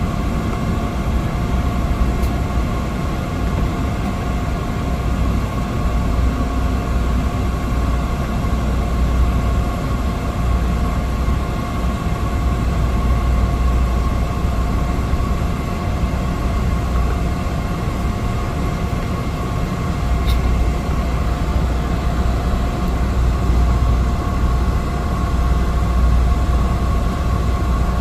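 Cessna 208 Caravan's single Pratt & Whitney PT6A turboprop engine heard in the cabin: a steady loud drone with a constant high hum over a low rumble.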